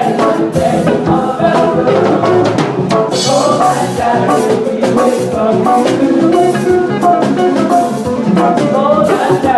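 A church choir singing an anthem, backed by a drum kit and percussion keeping a steady beat.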